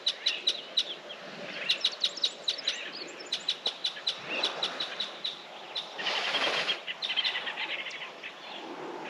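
Wild birds calling: a fast run of short, sharp chirps, several a second. A brief rush of noise rises about six seconds in.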